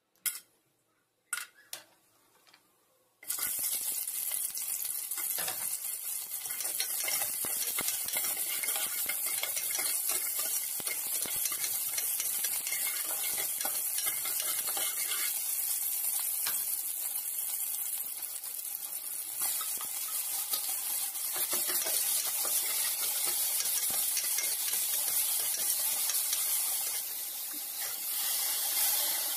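A few light clicks, then, about three seconds in, frying starts abruptly: a steady hiss of oil sizzling in an aluminium pressure cooker while a steel ladle stirs and scrapes sliced onions around the pan.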